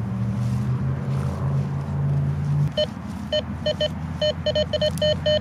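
Metal detector giving a run of short, same-pitched beeps at irregular intervals over a target, starting about halfway through, over a steady low hum in the first half.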